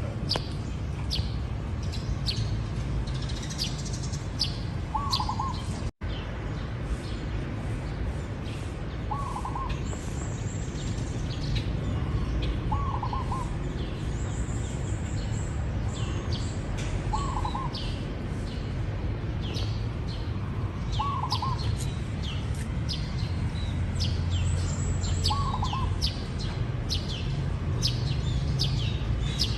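Zebra dove cooing: a short rolling phrase repeated about every four seconds, over scattered high chirps of other small birds and a steady low rumble. The sound drops out for a split second about six seconds in.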